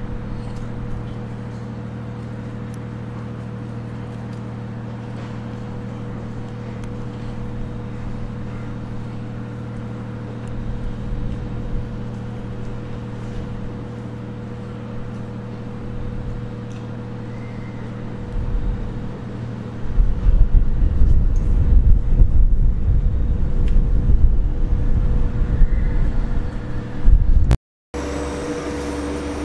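Railway train noise: a steady mechanical hum with a constant tone. About two-thirds of the way through, a louder low rumble takes over and breaks off suddenly near the end.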